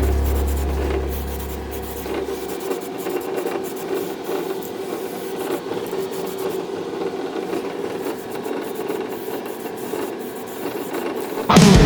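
Repeated rasping and rubbing, like hand filing or sanding. Music fades out at the start and cuts back in loudly near the end.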